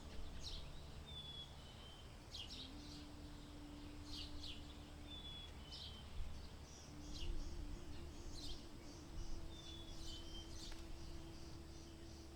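Small birds chirping outdoors: scattered short, sharp chirps and a few brief whistled notes, over a low steady rumble and a faint steady hum.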